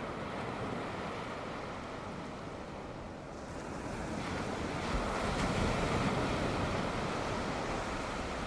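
Sea waves washing onto the shore, with one wave building about halfway through and breaking loudest around five to six seconds in, with wind rumble on the microphone.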